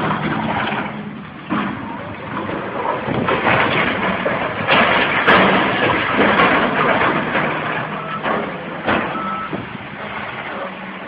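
Heavy machine running loudly: an engine drone under a dense rushing, clattering noise, with a few sharp knocks.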